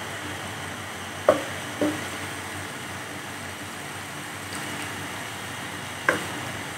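Chopped green garlic frying in oil in a wok, a steady sizzle, with a wooden spatula knocking against the pan three times.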